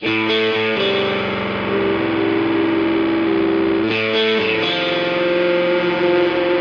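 Music: a rock song's instrumental intro on distorted electric guitar, sustained chords that start abruptly and change about a second in and again near four seconds.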